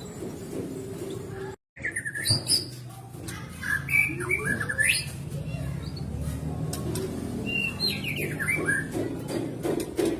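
White-rumped shama singing in short bursts of quick whistled and chirping notes, over a steady low background noise. The sound cuts out completely for a moment about a second and a half in.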